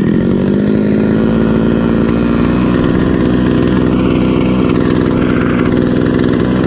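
Small 2 hp outboard motor running steadily under way, its pitch rising slightly at the start and then holding even.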